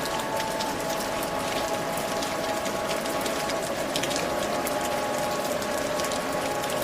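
Steady rain falling, a continuous hiss with scattered drop ticks, over a few faint held tones.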